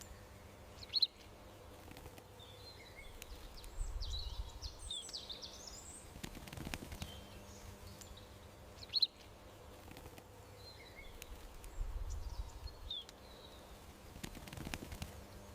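Small garden birds chirping and calling, with a short sharp call about a second in and again about eight seconds later and scattered twittering between, over a low outdoor rumble.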